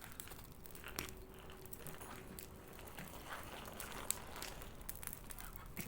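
Bonfire crackling faintly, with scattered small snaps and a few sharper cracks about a second in, about four seconds in and near the end.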